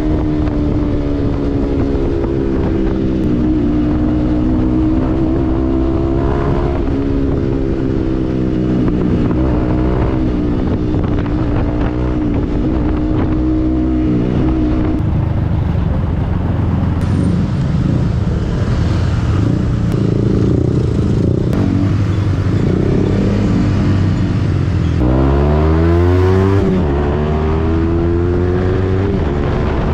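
Yamaha MT-15's single-cylinder engine through a Yoshimura aftermarket exhaust, running on the road with its pitch drifting up and down as the throttle changes. Near the end the revs climb quickly.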